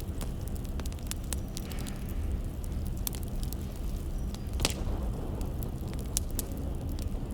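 Wood fire crackling: scattered sharp pops and snaps over a steady low rumble, with one louder pop a little past halfway.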